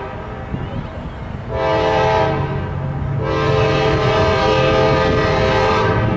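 Locomotive air horn on a Norfolk Southern GE Dash 9-40CW sounding two blasts, a short one about a second and a half in and a long one from about three seconds in, over the low steady drone of the diesel locomotives.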